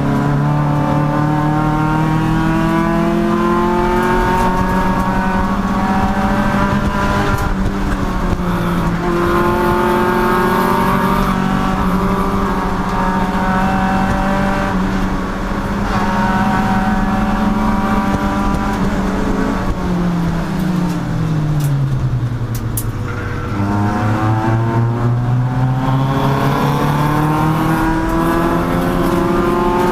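Race car engine pulling hard at high revs, its pitch climbing in steps through the gears. About 20 seconds in the revs fall away for a couple of seconds as the car slows for a corner, then climb again as it accelerates out.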